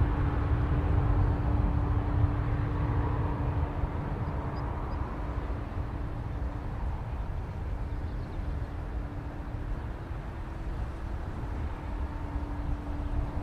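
Jet airliner's engines rumbling at a distance, a low steady roar with a faint whine that eases slightly.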